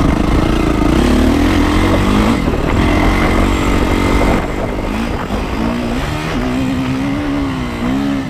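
Yamaha YZ450F single-cylinder four-stroke dirt bike engine under way, revving up and down as the throttle is worked, its pitch rising and falling. It eases off and runs a little quieter about halfway through.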